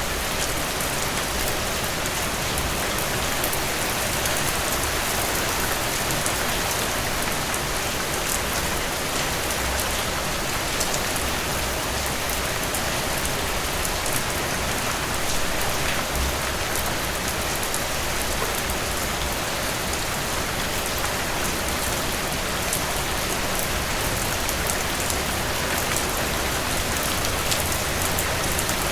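Heavy rain, a steady dense downpour with fine drop patter and a low rumble underneath.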